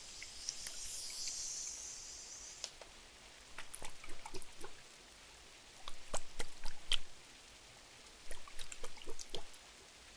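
A soft high hiss for the first couple of seconds, then three short bursts of small, sharp crackling ticks over a faint steady background.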